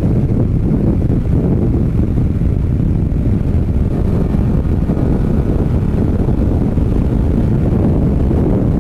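Steady low rumble of wind buffeting the microphone of a moving motorcycle.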